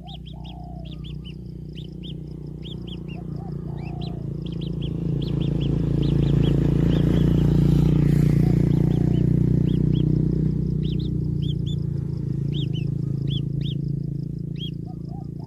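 Birds chirping in quick short notes again and again, over a faint steady high whine. A low rumble swells over several seconds, is loudest in the middle, and fades again.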